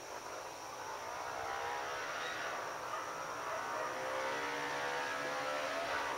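An airplane passing overhead: a steady whir whose pitch pattern sweeps slowly, swelling over the first couple of seconds and dropping away at the end.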